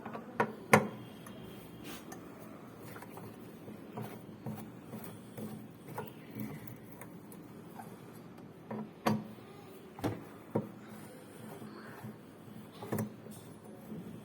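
Irregular knocks, clicks and scraping of hand tools and metal parts as a fully automatic washing machine's clutch mechanism is unbolted and taken apart. The loudest knock comes about a second in, with another cluster of knocks around nine to eleven seconds.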